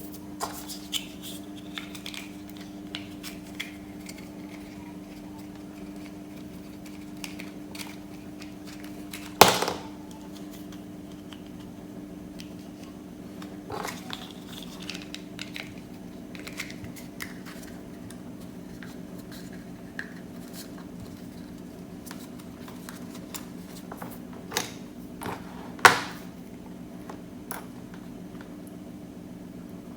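Scattered clicks and knocks of small objects being handled, two of them much louder, about nine seconds in and near the end, over a steady low hum.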